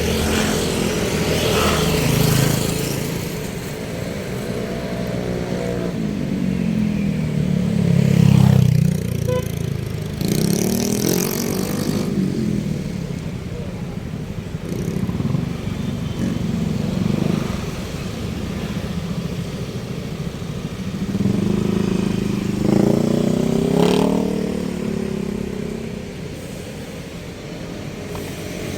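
Road traffic with motorcycles and other motor vehicles passing by, their engine pitch rising and falling as they go past; the loudest passes come about a third of the way in and again near the end.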